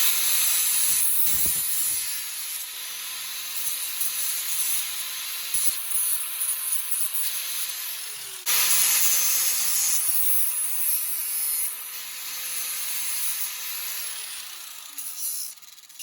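Handheld power tool running under load while cutting into the metal ammo can, its motor holding a steady pitch over a harsh high hiss. It stops briefly about halfway through and starts again, then spins down near the end.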